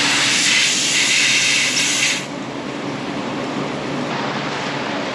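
A machine running steadily with a low hum. Over it, a loud rushing hiss lasts about the first two seconds, then cuts off.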